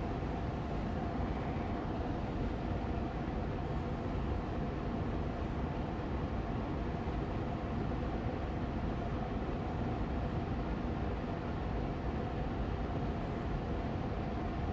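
Austin Air Allergy Machine air purifier fan running steadily on medium speed: an even, unchanging rush of air with a faint steady tone riding on it.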